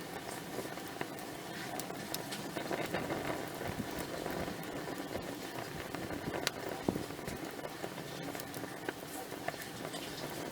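Wood campfire burning with a steady hiss and scattered small crackles and pops.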